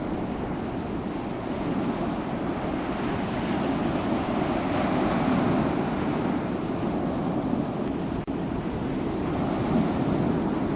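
Sea waves breaking and washing onto a shore: a continuous rushing surf that swells in the middle, with a momentary dropout about eight seconds in.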